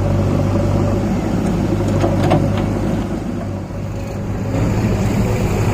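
Tractor diesel engine running steadily, with a low hum, a few short knocks about two seconds in, and a brief dip in loudness past the middle.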